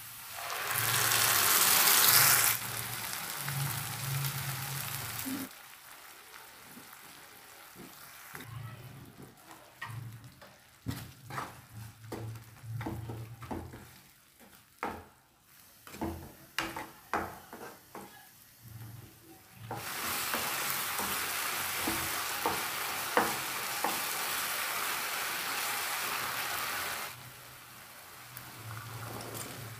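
Tomato puree hits hot oil and fried onions and sizzles loudly for a couple of seconds, then keeps frying. Through the middle the paste is stirred with a spatula, with quick scrapes and taps against a nonstick pan over a softer sizzle. After that comes a steady, even sizzle as the masala fries on low heat.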